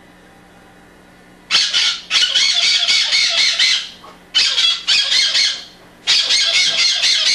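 Pet bird squawking loudly in three long runs of rapid, harsh, repeated calls, starting about a second and a half in after a faint steady hum.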